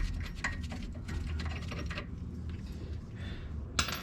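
Quick, irregular metallic clicks from hand tools working the upper brake caliper mounting bolt loose, thinning out after about two seconds, with one sharp click near the end.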